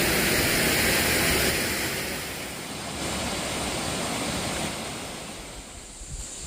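Waterfall: a steady rush of falling water that starts to fade about a second and a half in and is much fainter by the end.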